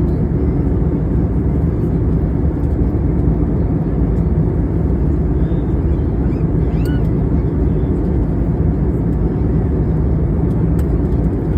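Steady low roar of an airliner cabin in flight: engine and airflow noise heard from inside the plane, even in loudness throughout.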